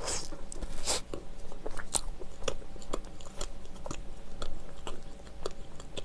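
A bite into a soft black bread roll, with a second bite about a second in, followed by close-up chewing with many small mouth clicks.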